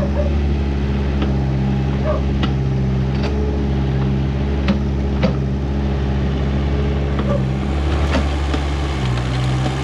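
Backhoe's diesel engine running steadily as it digs, its note shifting briefly about eight seconds in, with occasional sharp knocks and clanks.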